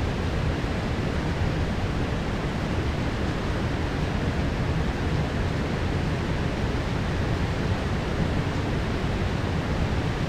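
Heavy rain downpour, a steady, even hiss and rumble of falling water with no thunderclap or other sudden event.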